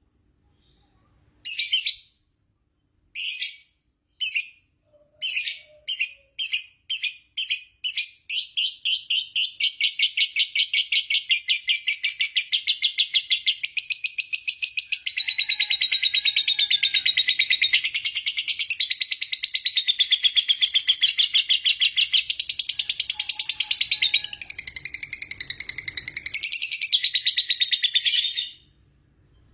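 Lovebird giving a long 'ngekek' chatter. A few separate shrill calls speed up into rapid pulses, which run together into a continuous fast trill for about twenty seconds before it stops abruptly near the end. The long unbroken chatter is the trait prized in lovebird singing contests.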